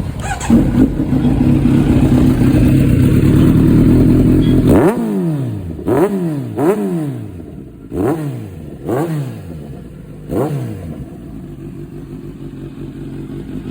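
Motorcycle engine held at high revs for about four seconds, then blipped sharply six times, each rev rising and dropping quickly, before settling into a steady idle.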